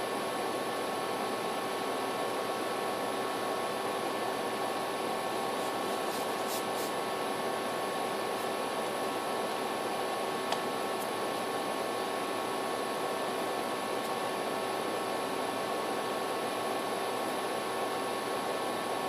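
Steady background hiss with a few constant faint hum tones, like room noise from a fan or the recording's own electrical noise, and a single small click about ten seconds in.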